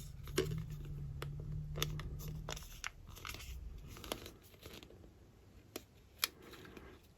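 Small plastic kit parts being handled and pushed together, giving scattered light clicks and taps. A low steady hum underneath stops about two and a half seconds in.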